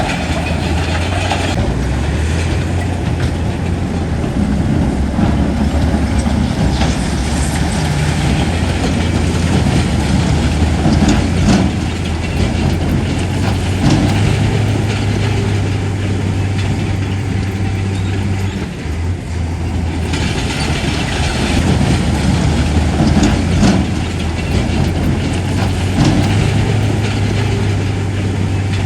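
Heavy diesel earthmoving machine running hard, its engine humming steadily, with scattered metal clanks and knocks throughout. The level dips briefly a little past the middle, then comes back up.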